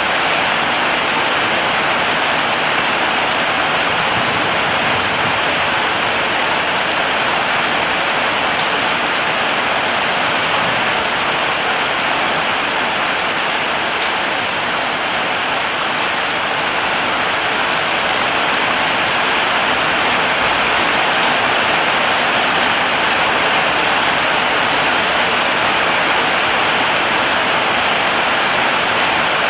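Heavy rain falling steadily, a dense even hiss of drops on surfaces with no breaks or single loud events.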